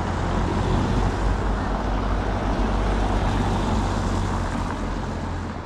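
A motor vehicle passing on the street, its engine and tyre noise swelling and then fading.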